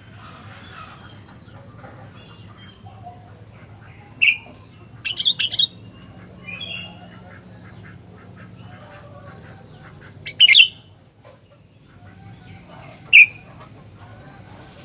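Sooty-headed bulbul (kutilang) calling in vigorous 'gacor' form: loud, short, sharp calls in a handful of bursts, over a steady low hum.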